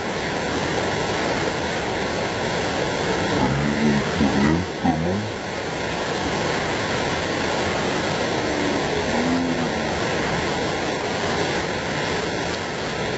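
Steady rushing noise of torrential rain and flood water, with faint voices briefly twice.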